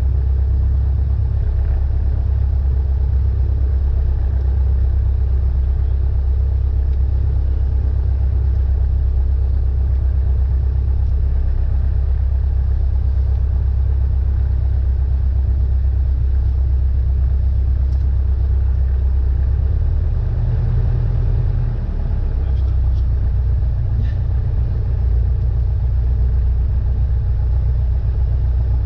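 Cessna 172N's four-cylinder Lycoming engine and propeller droning steadily in flight, heard inside the cabin as a loud, low hum. About twenty seconds in, the low note shifts in pitch.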